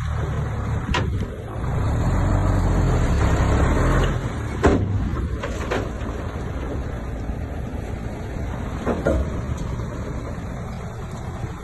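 Bulldozer's diesel engine running steadily with a heavy low rumble, broken by about four sharp knocks or clanks.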